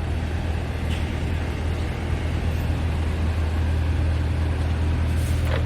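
Scania R500 tractor unit's 13-litre straight-six diesel idling steadily, with a deep, even hum.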